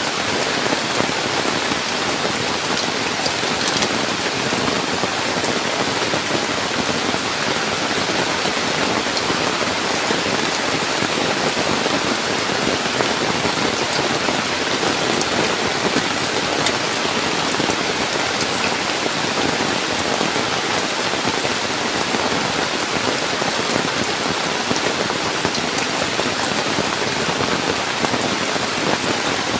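Heavy tropical rain falling steadily, a dense hiss with individual drops ticking on surfaces.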